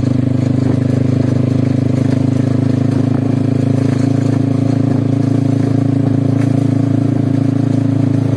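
Motorcycle engine running at a steady speed while riding, a constant low drone with a fast even pulse.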